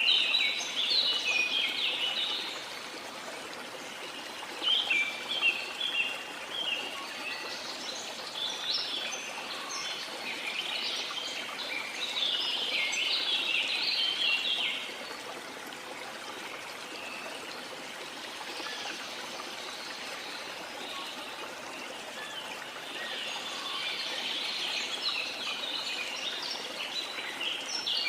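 A river flowing steadily, with birds singing in repeated bouts of quick chirping notes over the water.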